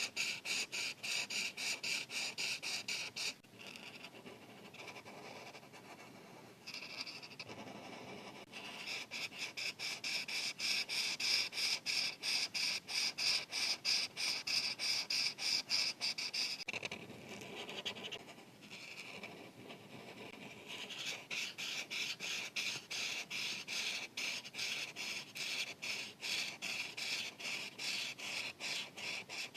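Felt-tip marker rubbing on paper in fast back-and-forth coloring strokes, several a second, in three runs with softer, quieter rubbing in the pauses between them.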